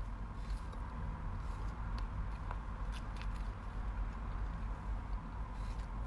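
Steady low background rumble with a faint hum and a few soft clicks and taps scattered through it.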